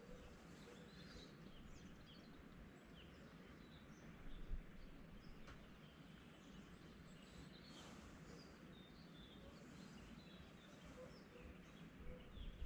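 Quiet early-morning outdoor ambience: faint scattered bird chirps and calls over a low, steady background hum, with a brief low rumble about four seconds in and again near the end.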